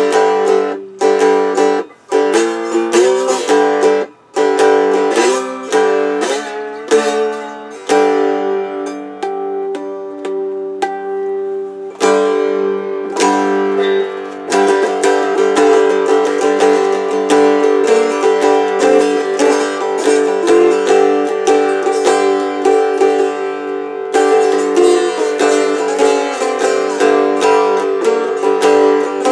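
Homemade cigar box guitar played with a slide: plucked notes that glide in pitch in the first few seconds, then a steady run of strummed chords from about halfway through.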